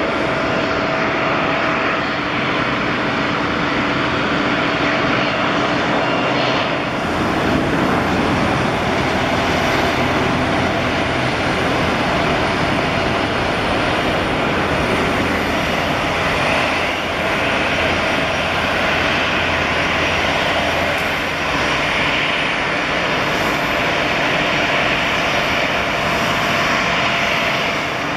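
Airliner engines running steadily, a dense continuous engine noise with a few steady tones in it, growing heavier in the low end about seven seconds in.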